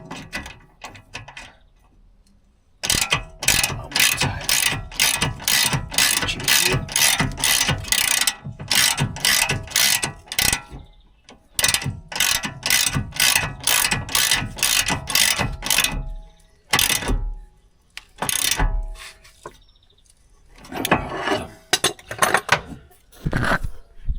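Hand ratchet spanner being worked back and forth, tightening a nut on a newly fitted track rod end: rapid ratcheting clicks in three long runs with short pauses between.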